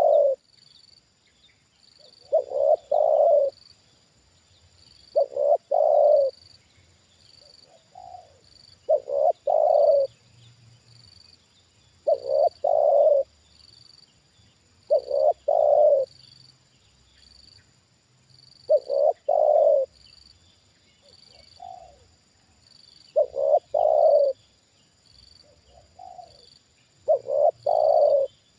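Spotted dove cooing: loud phrases of two or three low notes, each about a second long, repeated every three to four seconds. A few fainter coos come in between, from a second dove further off.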